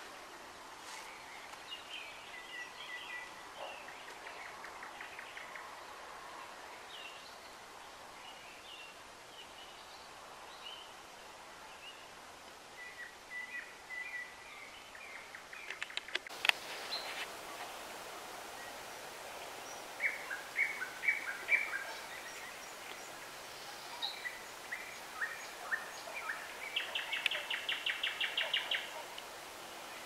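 Songbirds singing: short chirps and brief song phrases throughout, with a fast trill of evenly repeated notes near the end.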